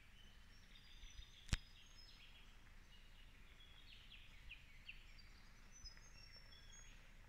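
Faint birdsong in quiet bush: scattered short high chirps and whistles, with a single sharp click about a second and a half in.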